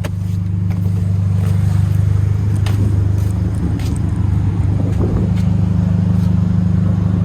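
Turbocharged Kia car engine running steadily, heard from inside the cabin, with a few faint clicks over it.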